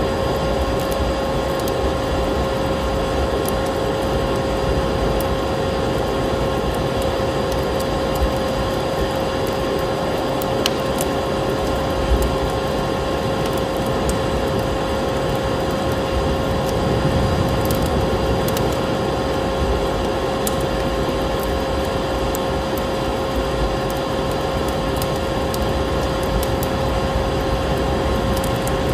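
Steady drone of a vacuum cleaner motor, one constant hum pitch over a rushing noise, while a wood fire crackles with frequent sharp pops.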